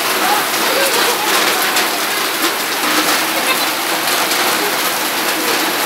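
Heavy rain pouring steadily onto standing water on a paved yard, a dense even hiss.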